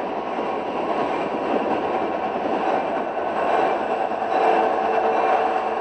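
Steady rumble and rail noise of a freight train running on the line, unbroken throughout.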